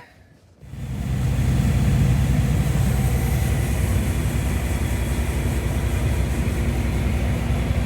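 Farm machinery engine running steadily under a broad rush of noise, starting abruptly about half a second in.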